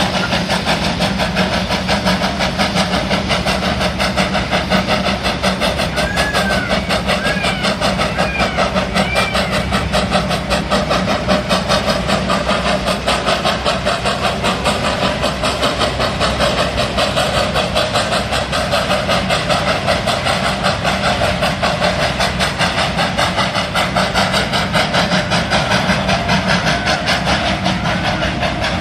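A small locomotive working on a narrow private railway line: a steady, fast, even beat over a steady low hum. A few short high chirps come about six to nine seconds in.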